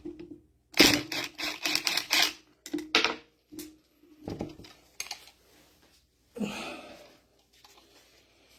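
Hand tools working the 13mm bolts on a mini excavator's hydraulic control valve block: a quick run of metallic clicks and clinks in the first few seconds, a few single clicks later, and a short scrape about six and a half seconds in.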